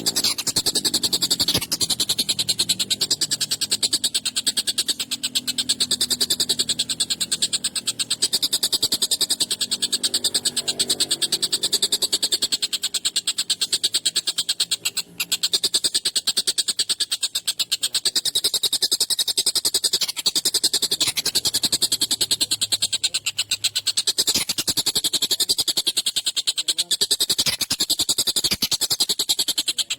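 Tengkek buto kingfisher calling in a long, harsh, rapid rattle of many strokes a second, sharp and high, with a brief break about halfway through.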